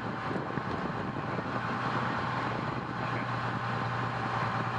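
Fire truck engine running steadily, a constant low drone heard from inside the cab.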